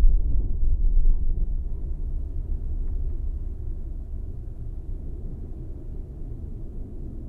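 Low rumble of thunder rolling away, fading steadily over several seconds.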